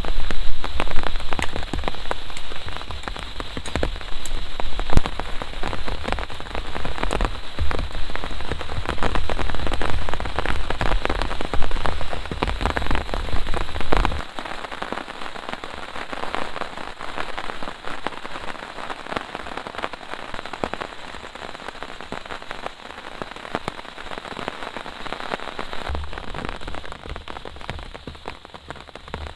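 Heavy rain falling with many close, distinct drop hits, over a deep low rumble that stops about halfway through and comes back briefly near the end; the rain eases a little in the second half.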